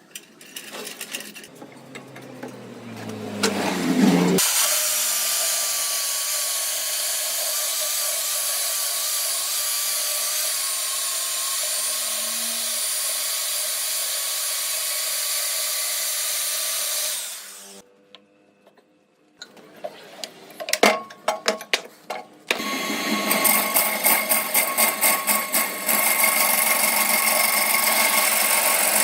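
A power tool working wood: a tone falls in pitch, then the tool runs steadily with a high hiss for about thirteen seconds and cuts off suddenly. After a few seconds of near quiet there are a few sharp knocks, then a tool starts again with a rapid, pulsing sound.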